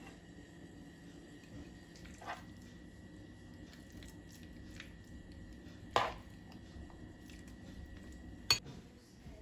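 Kitchenware being handled: three separate clinks and knocks, the second and third the loudest, over a steady low hum and a faint high whine that stops with the last knock.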